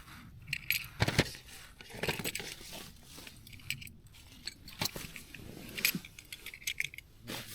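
Rummaging through camping kit: scattered light clinks and knocks of small metal items and the rustle of bags and gear being moved about while searching for a spork.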